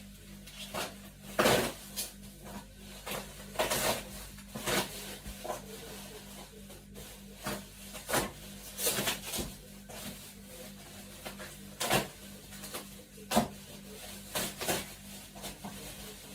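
Things being handled by hand: an irregular string of short knocks, rubs and rustles, a few sharper ones standing out, over a steady low hum.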